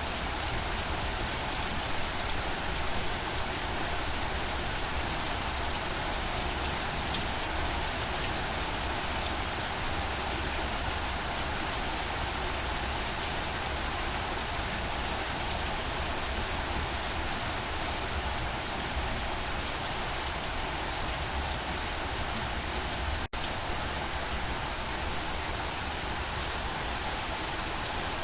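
Steady rain falling and pattering on surfaces, an even continuous hiss of drops. There is one split-second gap late on.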